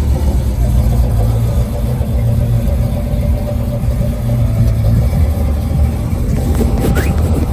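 Car engine running with a steady low rumble. A short rising squeal comes near the end.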